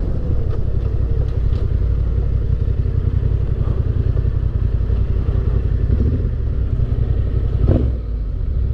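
Motorcycle engine running steadily at low speed, with a deep, even engine note; the level dips briefly near the end.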